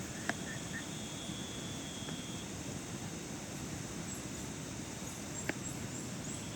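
Steady rain falling, with two sharp taps, one just after the start and one about five seconds in.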